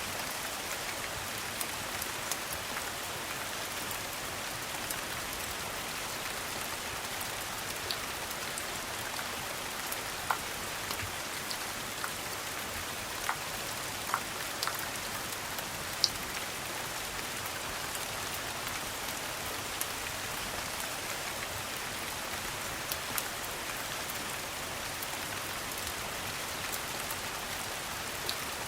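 Steady rain falling, an even hiss, with scattered sharp clicks and pops, the loudest about halfway through.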